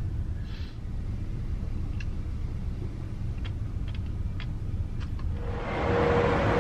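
Low, steady rumble of the Caledonian Sleeper train heard inside a cabin, with a few faint clicks. Near the end it gives way to a louder, fuller noise with a steady hum.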